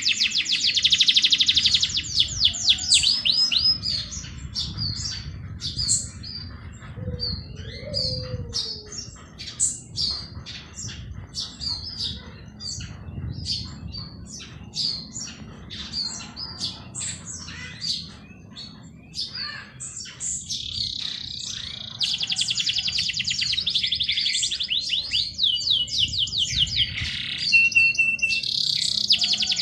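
Songbirds singing: fast, dense, high trills at the start and again from about twenty seconds in, with scattered separate chirps in between.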